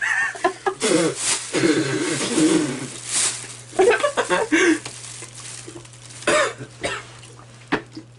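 A person coughing and clearing their throat in a string of irregular coughs, set off by the burn of an extremely hot chilli pepper.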